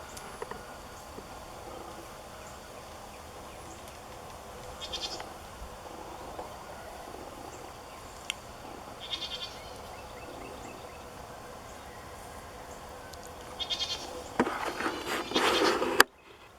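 Goats bleating from the nearby goat yard: three short, wavering calls a few seconds apart. A louder burst of rustling noise comes near the end and stops abruptly.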